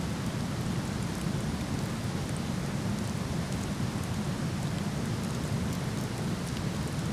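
Steady rushing of a waterfall, with faint, scattered crackles from a burning wood fire.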